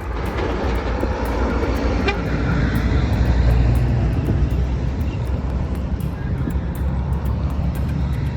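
Heavy truck engine and road noise, a deep rumble that swells about three seconds in and then eases, as of a truck driving past. Background music plays underneath.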